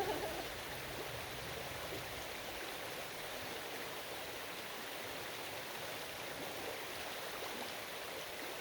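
Stream water flowing steadily, an even rushing wash with no breaks.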